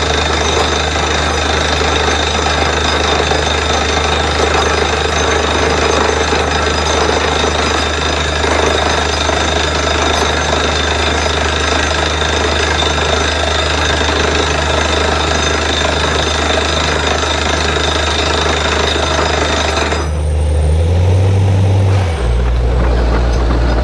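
Borewell drilling rig at work: a steady engine drone under loud, dense drilling noise. About 20 seconds in, the drilling noise cuts off suddenly, leaving the engine, whose pitch steps up and down.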